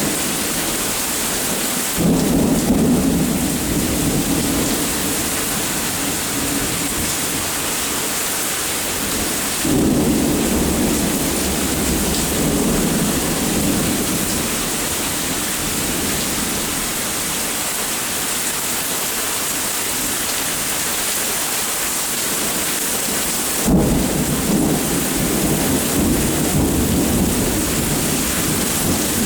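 Steady rain during a thunderstorm, with rolling thunder rumbling in three times, each roll starting suddenly and lasting several seconds.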